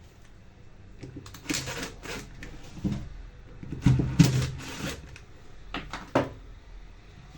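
Irregular clicks, knocks and short rattling scrapes of hard objects being handled, with the loudest clusters about one and a half, four and six seconds in.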